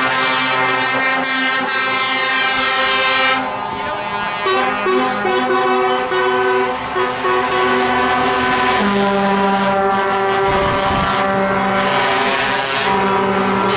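Truck air horns sounding in long held blasts, several tones overlapping and shifting in pitch a few times, over passing truck engines.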